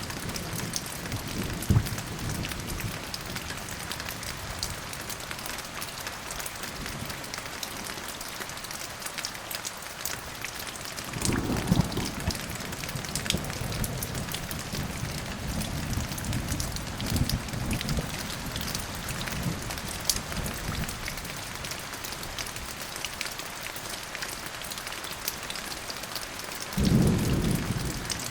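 Steady rain falling, with low rolls of thunder: one fading out near the start, a longer rumbling roll beginning a little after ten seconds in, and a short, louder clap of thunder near the end.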